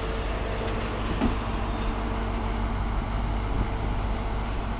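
Class 43 HST diesel power car idling at the platform: a steady low diesel rumble with a faint steady hum, and one brief click about a second in.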